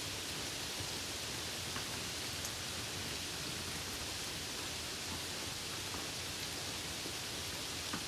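Steady hiss of rain, with a low rumble beneath and a few faint ticks of single drops.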